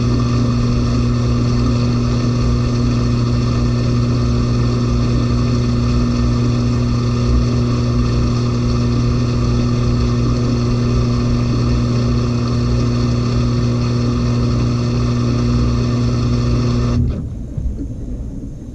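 LG 18 kg washing machine in its final spin, the drum turning at a steady high speed with a constant motor hum. Near the end the drive cuts out suddenly and the sound drops to a fading rumble as the drum coasts down.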